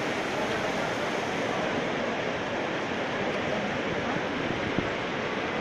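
Heavy downpour of rain pelting paved ground and foliage: a steady, even hiss.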